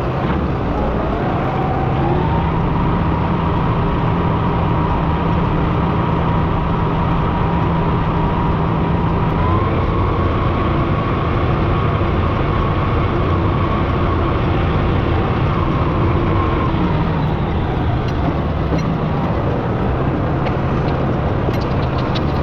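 An engine speeds up over the first couple of seconds, runs steadily at high speed with a small further rise about ten seconds in, then slows back down about seventeen seconds in.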